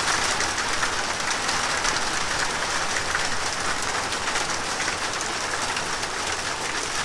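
Heavy rain mixed with small hail drumming on a metal roof: a steady, dense patter of countless tiny impacts.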